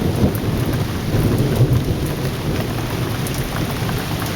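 Heavy rain pouring steadily, with a low rolling rumble of thunder underneath.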